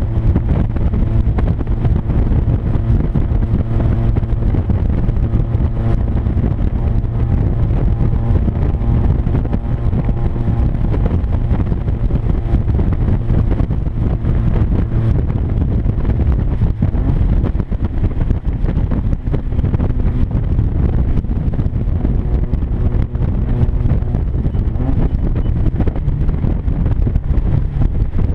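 1996 Mazda Miata's 1.8-litre four-cylinder engine cruising at highway speed, very loud through an exhaust leak where the joint between the catalytic converter and the mid-pipe is spaced open with washers. A steady, low engine drone that shifts only slightly in pitch.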